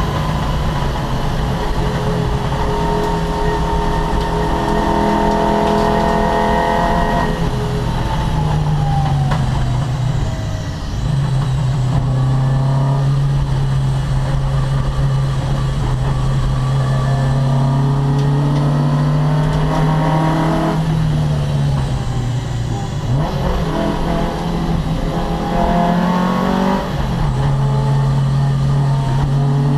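Opel Kadett C race car's four-cylinder engine running hard at high revs, its note held steady for long stretches. Its pitch drops and climbs again several times as it changes gear.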